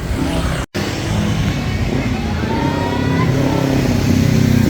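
Street traffic with a motor vehicle engine accelerating, its pitch rising. The sound cuts out completely for a split second less than a second in.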